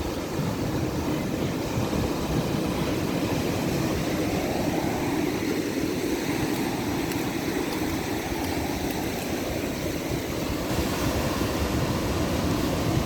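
Ocean surf: a steady, continuous rushing wash of waves, without distinct single breaks.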